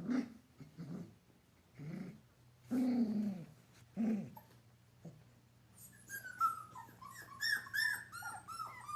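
Puppies play-fighting: short low growls about once a second, then a rapid run of high-pitched squeals and whimpers.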